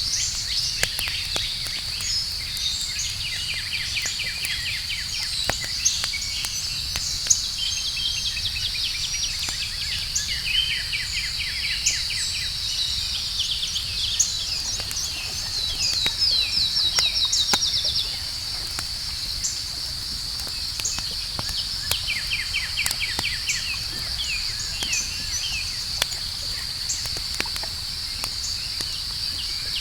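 Night ambience: a steady high-pitched insect drone with rhythmic cricket-like trills over a campfire crackling with scattered small pops. A louder, faster trill builds in the middle and cuts off suddenly.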